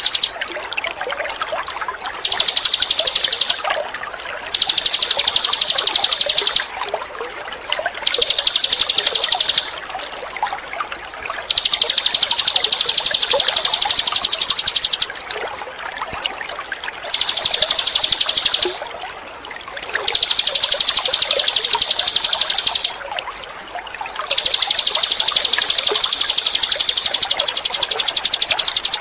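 A small songbird's rapid, high-pitched trill, given in long phrases of about two to four seconds with short pauses between, over a steady background of trickling water.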